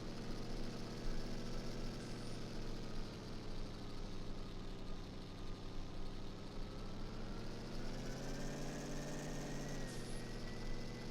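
Truck engine running steadily. Its pitch climbs gradually from about seven seconds in and drops back suddenly near the end.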